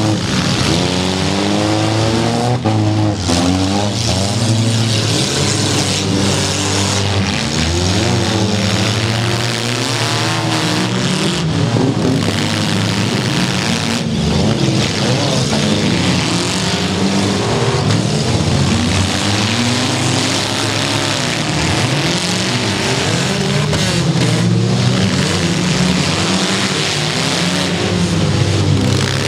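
Several demolition derby cars revving and running hard at once, their engine pitches rising and falling over one another, with a few sharp knocks from cars colliding.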